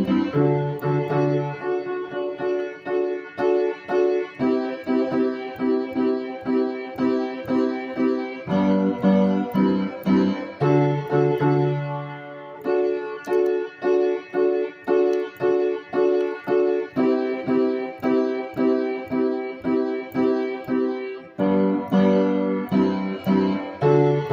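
Instrumental keyboard music with a piano sound: chords struck over and over in a steady rhythm, with a low bass note that changes every couple of seconds.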